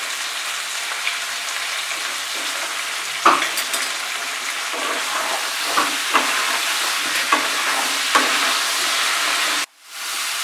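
Cubed potato, pumpkin, pointed gourd and brinjal sizzling in hot mustard oil in a kadai over a high flame, stirred with a flat spatula that scrapes and knocks against the pan several times. The sound cuts out abruptly for a moment near the end.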